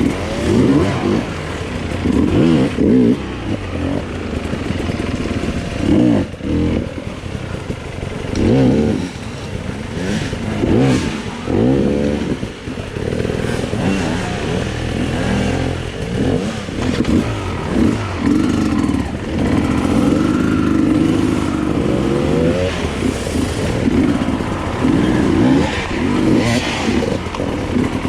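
Dirt bike engine on a trail ride, revving up and falling off again and again in short bursts of throttle, held steadier for a couple of seconds just past the middle, with knocks and clatter from the bike over rough ground.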